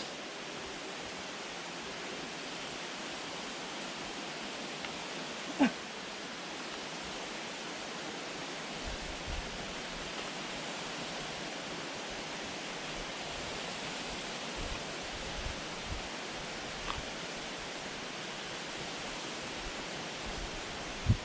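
Steady, even rushing noise, with one sharp knock about five and a half seconds in and a few faint clicks later.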